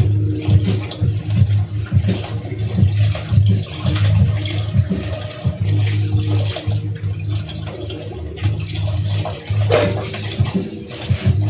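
Kitchen tap running into a sink during hand dishwashing, with scattered clinks and knocks of dishes throughout.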